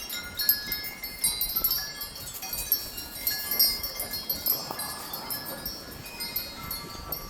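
Several wind chimes ringing and clanking irregularly as strong wind gusts swing them, with a faint rush of wind rising about halfway through.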